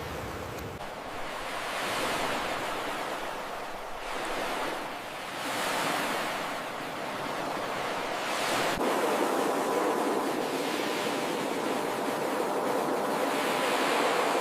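Ocean surf: waves breaking and washing ashore in repeated swells of hiss, a few seconds apart. A faint steady hum joins after about nine seconds.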